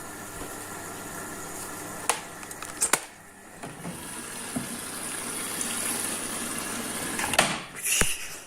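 Washing machine mid-cycle with water rushing and sloshing through it, punctuated by a few sharp clicks about two and three seconds in and a couple of louder knocks near the end.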